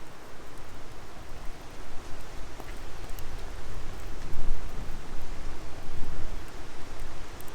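A wood fire burning: a steady hiss with scattered sharp crackles and pops, over a low rumble that rises and falls.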